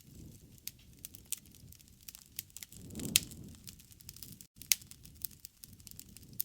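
Wood fire crackling: irregular sharp pops and snaps over a low rumble of burning, which swells briefly about halfway through, with two louder pops, one about three seconds in and one near five seconds.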